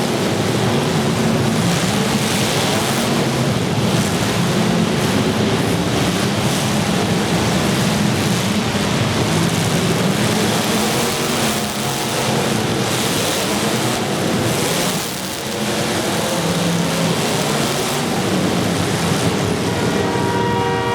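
Demolition derby cars' engines running and revving, their pitch rising and falling over a steady wash of noise. A horn starts to sound near the end.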